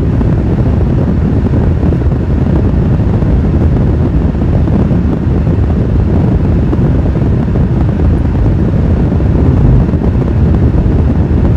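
Steady low rumble of road and wind noise from a car being driven.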